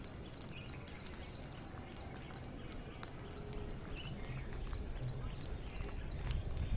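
Birds chirping: many short, high-pitched chirps and ticks, several a second, in an irregular run over a faint low rumble.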